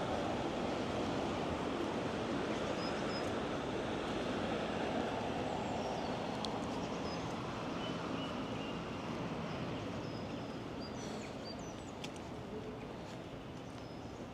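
Steady wash of distant city traffic, slowly fading, with small birds chirping now and then.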